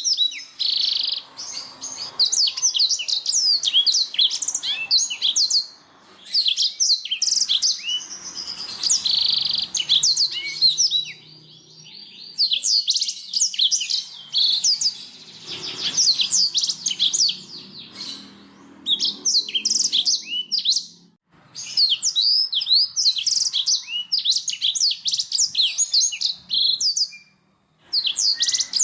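Domestic canary singing: long runs of rapid, high chirps and trills, broken by short pauses every few seconds.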